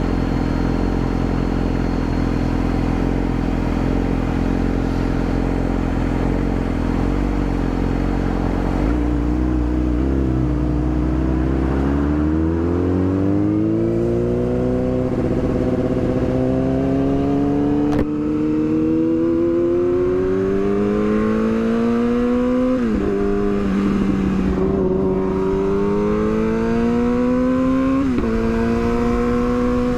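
Yamaha R6 inline-four sport-bike engine running at a low, steady note for about nine seconds, then pulling away with a long rising pitch. The note drops sharply twice in the last third as it shifts up, then settles into a steady cruise.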